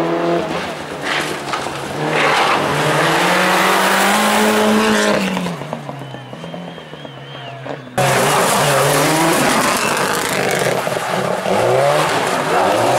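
Rally car engines at full throttle: one car's engine revs up hard and then backs off about five seconds in. After an abrupt cut about eight seconds in, another rally car is heard running hard, its engine pitch rising and falling quickly through the gears.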